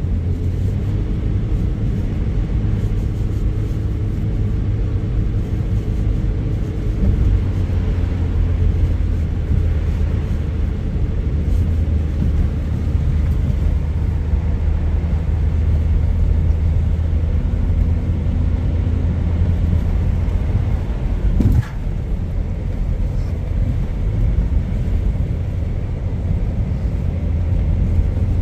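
Steady low rumble of a car driving, with a short sharp click about three-quarters of the way through.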